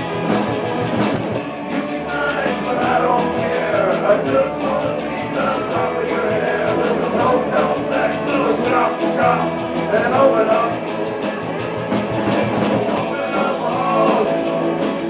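Rock-and-roll band music with guitar, played at a steady loud level, with no words heard.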